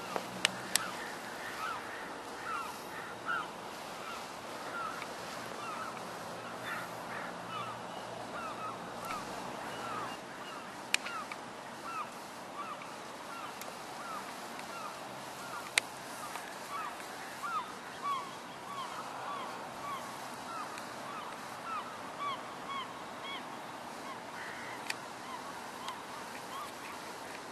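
A flock of birds calling, many short repeated calls a few a second, overlapping one another. A few sharp clicks stand out among them.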